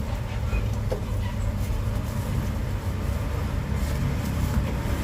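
Steady low rumble of road traffic passing by, with no clear single event standing out.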